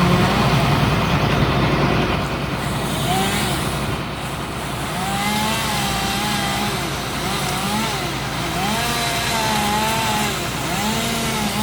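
Chainsaw revving up and down over and over, each rise and fall lasting about a second, over a steady rumble of traffic or engine noise that is loudest at the start.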